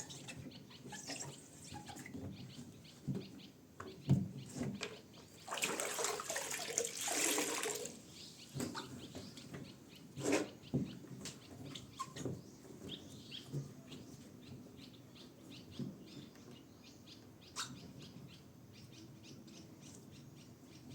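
Scattered knocks and clicks of objects being handled, with a rush of water lasting about two seconds around six seconds in.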